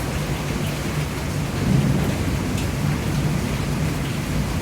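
Steady rain falling, with a few separate drop ticks, over a constant low rumble.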